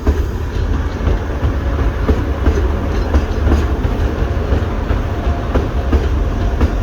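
Three-carriage passenger train running past into the platform: a steady low rumble, with the wheels clicking over the rail joints now and then.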